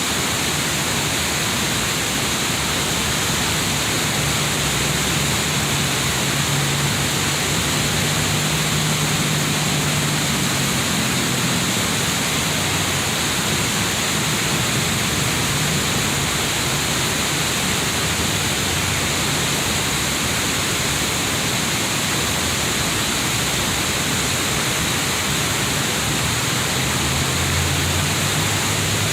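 Steady, loud rush of water falling and cascading down a river waterfall.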